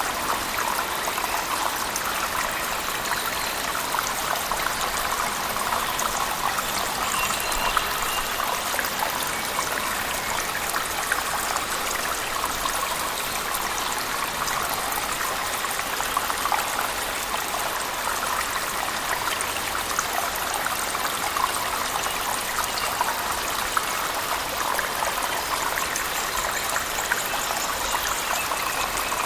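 Waterfall splashing in a cave mixed with heavy rain: a steady, dense rush of water with fine spattering.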